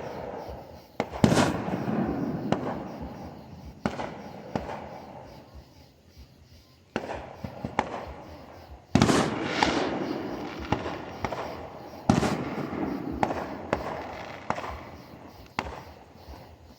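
Fireworks going off: about five loud bangs a few seconds apart, each fading away slowly, with smaller sharp cracks in between.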